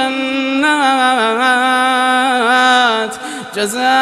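A man reciting the Quran in melodic tajweed style, holding long drawn-out notes with ornamented turns in pitch and pausing briefly about three seconds in.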